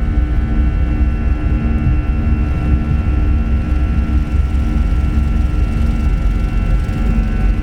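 Jet airliner cabin noise from inside the cabin: the steady low rumble of engines and airflow, with faint steady whining tones above it.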